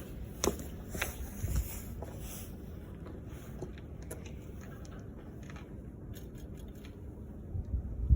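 Clicks and handling noises with a few low thumps, ending in one loud low thump, from a 1971 Kawasaki W1SA motorcycle being readied for a cold start before its engine runs.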